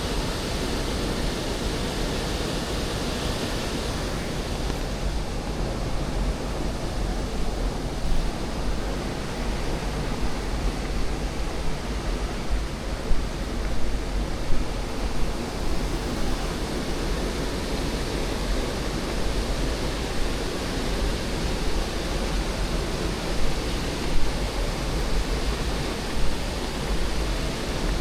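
Waterfall's rushing water, a steady, unbroken hiss over a deep low rumble.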